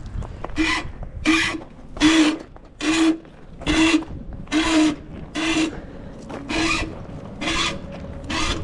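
Rhythmic rasping strokes, about ten of them, a little under one a second, each with a brief low hum beneath the scrape.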